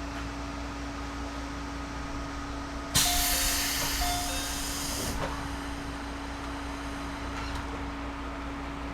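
Series 211-5000 electric train heard from inside the car, a steady low hum, broken about three seconds in by a sudden loud hiss of compressed air from the train's pneumatic system that fades over about two seconds.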